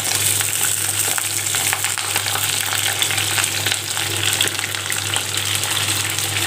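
Freshly cut green chillies hitting hot sesame oil in a clay kadai, sizzling and crackling steadily as they fry.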